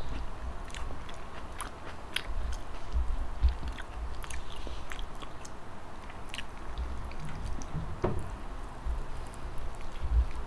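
Close-miked chewing with many small wet mouth clicks, and soft handling noise as bare fingers gather rice and food from the plate.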